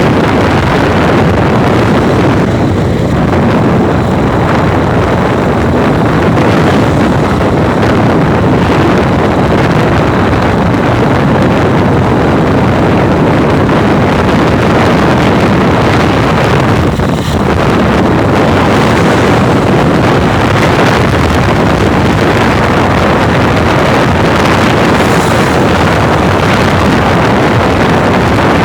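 Steady wind roar buffeting the microphone, mixed with engine and road noise from a motorbike riding at highway speed.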